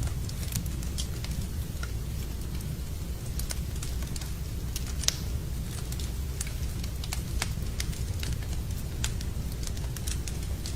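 Wood fire burning in a fireplace, crackling and popping irregularly over a steady low rumble, with one louder pop about five seconds in.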